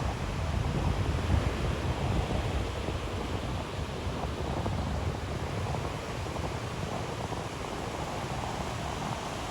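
Ocean waves washing onto a beach: a steady rushing surf that swells slightly in the first couple of seconds, then eases.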